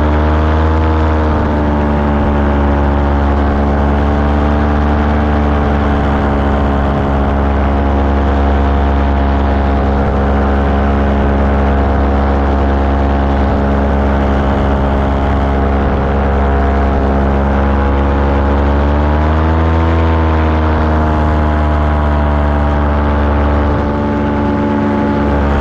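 Small aircraft engine running steadily. Its pitch rises and falls back briefly about a second in and again around twenty seconds in, as the engine speed changes.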